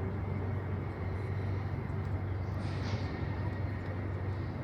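Urban background sound: a steady low rumble with faint, indistinct voices, and a brief hiss a little past the middle.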